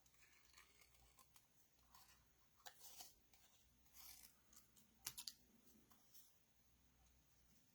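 Faint snips of small scissors cutting cardstock, a handful of short crisp cuts with light paper rustle, the sharpest about five seconds in.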